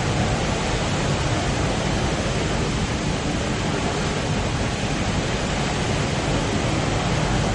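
Steady rushing roar of falling water from the Rain Vortex, a large indoor waterfall pouring into its basin.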